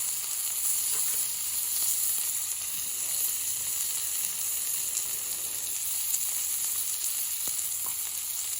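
Food sizzling steadily in a hot pan, with a few faint pops.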